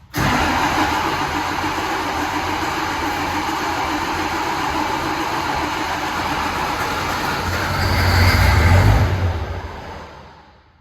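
A large engine running loudly and steadily, swelling to a deep rumble about eight seconds in, then fading away.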